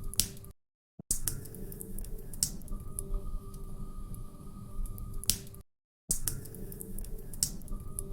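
Log fire crackling in a fireplace: irregular sharp pops and snaps over a steady low rumble. The sound cuts out to silence twice, briefly.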